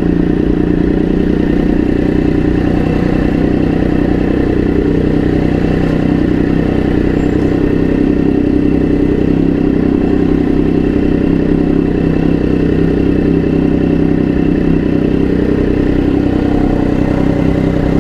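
Motorcycle engine running steadily at an even, low pitch, with no revving.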